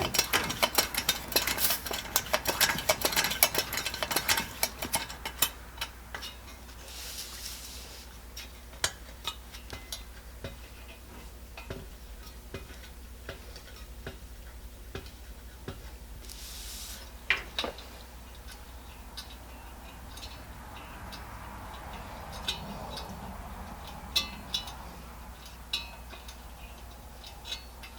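Small metal clicks and rattles from a Coleman 502 camp stove being worked on, rapid and dense for the first few seconds, then scattered. Two short hisses break in about seven and sixteen seconds in.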